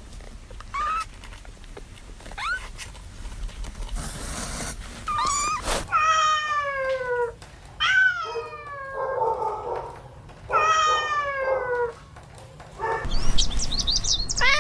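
A cat meowing: a few short chirping calls, then three long drawn-out meows that fall in pitch, each about a second and a half long, with more calls starting near the end.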